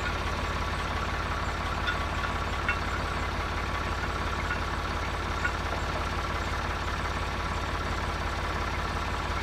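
Engine idling steadily with a deep low hum, and a few faint light clicks.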